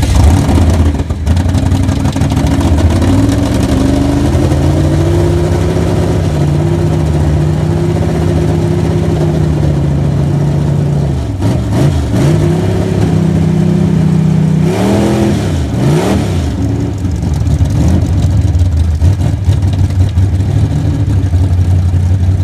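1951 Chevrolet's engine heard from inside the car while it is driven. It pulls up in pitch over the first few seconds and holds steady. It drops and climbs again twice, as with gear changes, then settles to a low steady hum.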